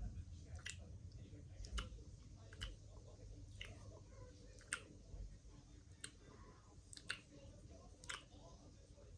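Light, sharp clicks about once a second from makeup products being handled.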